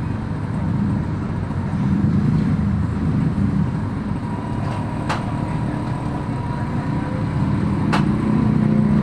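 Steady low rumble of road traffic and running vehicle engines, with two sharp knocks about five and eight seconds in.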